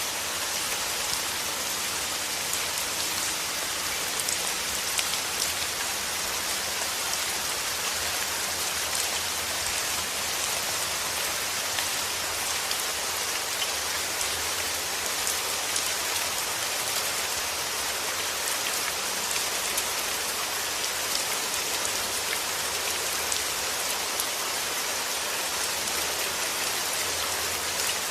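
Steady rain falling and pattering on a surface, an even hiss dotted with individual drop ticks.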